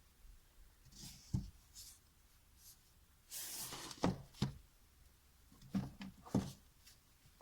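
Several light knocks and a brief sliding rustle about halfway through, as of objects being handled and set down on a surface.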